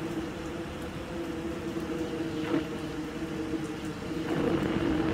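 Heavy rain pouring down as a steady hiss, with a steady low mechanical hum underneath.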